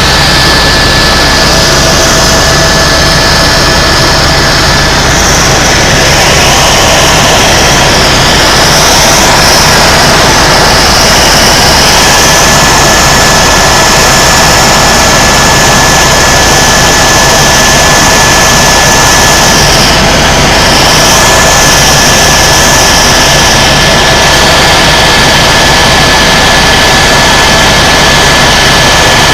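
Tour helicopter in flight, heard from inside the cabin: loud, steady engine and rotor noise with a thin, steady high whine running through it.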